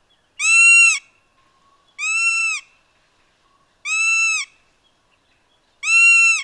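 Lesser yellow-naped woodpecker (lesser yellownape) calling: four drawn-out single whistled notes, each slightly rising then falling, about two seconds apart.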